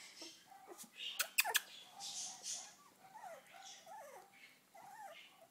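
Three-week-old poodle puppies squeaking and whimpering, a run of short, thin, high squeaks that bend up and down in pitch. A few sharp clicks about a second and a half in.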